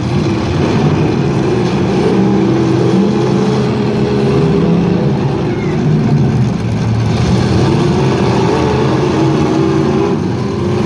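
Truck engine running hard at high revs, its pitch wavering up and down as the throttle changes.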